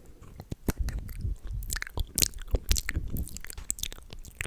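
Close-miked ASMR mouth sounds: wet, sticky clicks and smacks of lips and tongue in quick, irregular succession.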